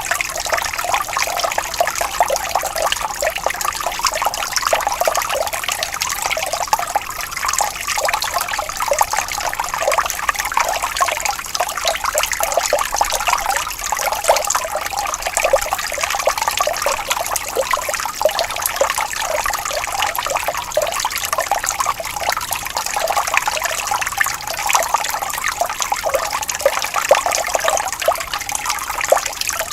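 Water flowing gently and trickling steadily, with many small splashes and gurgles running on without a break.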